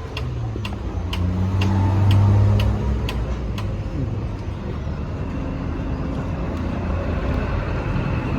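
A motor vehicle's engine running, swelling to its loudest about two seconds in and then easing off, with a regular ticking about twice a second that stops partway through.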